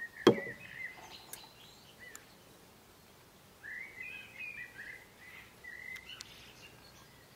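A small bird chirping in short quick phrases, with a longer run of chirps from a few seconds in. A single sharp knock just after the start, the loudest sound.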